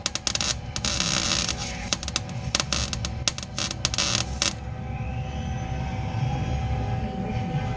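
Welder crackling in short stop-start bursts while beads are laid on a steel body mount bracket. The crackle cuts off about four and a half seconds in, and a low steady rumble carries on.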